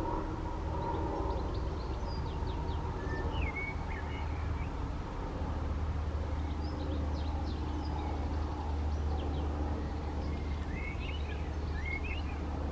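Small birds chirping and trilling in short phrases, over a steady low rumble.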